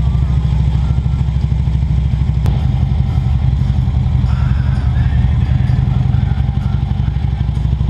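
Motorcycle engine running steadily at low road speed, a deep, fast-pulsing exhaust note.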